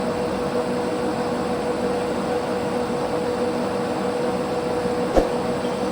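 Large, heavy engine lathe running with a steady hum while turning down a steel-bar control rod. A single short knock comes about five seconds in.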